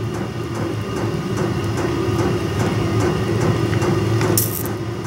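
Electric soldering gun humming steadily while its trigger is held to heat the tip, with faint crackles as solder and flux melt on the wire end. A short hiss comes about four and a half seconds in.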